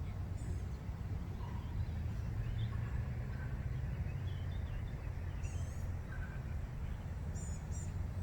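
Birds chirping over a steady low rumble, with a few quick, high, wavering chirps about half a second in, past the middle, and twice near the end.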